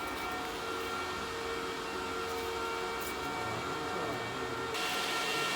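CNC drilling and milling machine running with a steady, multi-tone whine; near the end a louder hiss comes in and stays.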